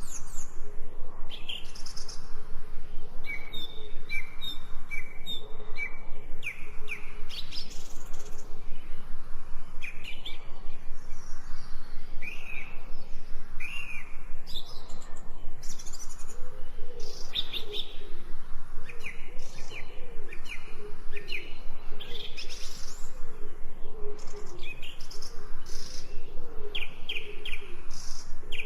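Songbirds chirping and calling in a forest, with short repeated chirps and trills throughout.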